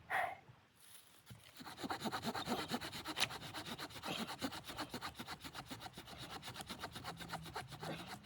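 Hand saw cutting through wood in quick, even back-and-forth strokes, starting about a second and a half in.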